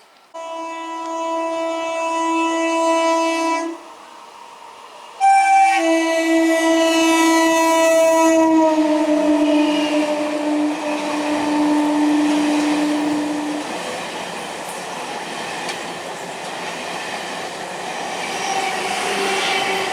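High-speed Indian Railways train sounding its multi-tone horn twice, a blast of about three seconds and then a longer one whose pitch drops as the train passes. The rush and rail clatter of the train running by at speed follow to the end.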